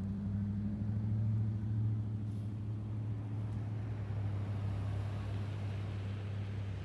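Motor vehicle engine running with a steady low hum, under a light hiss.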